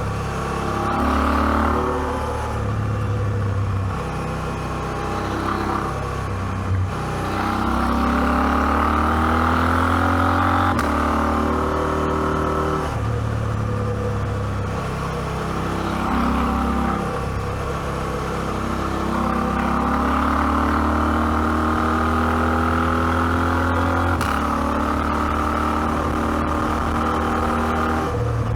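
KTM 790 Adventure's 799 cc parallel-twin engine under way. The revs rise and fall repeatedly as the bike accelerates, shifts and rolls off the throttle.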